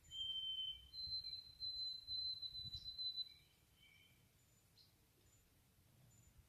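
A bird singing clear whistled notes: one lower note, then a higher note held at the same pitch for a couple of seconds, pulsing slightly in loudness.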